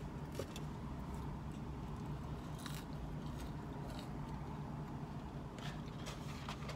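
A person chewing French fries, with a few short crackles from the paper fry carton and bag as she picks up more fries.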